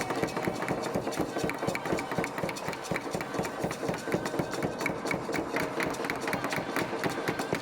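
Rapid, steady knocking of wood on wood, several strokes a second.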